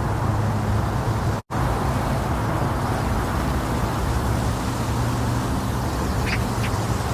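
Steady, muffled low rumbling noise played as womb-sound white noise for soothing a baby to sleep, with a low hum under it. It cuts out for an instant about a second and a half in, then carries on unchanged.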